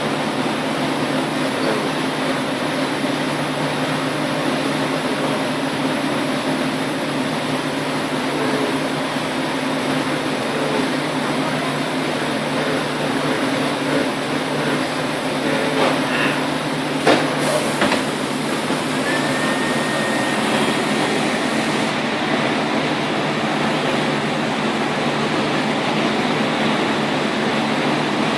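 CNC machine running steadily, a constant mechanical hum and rush with a few clicks about two-thirds of the way through and a brief high whine shortly after.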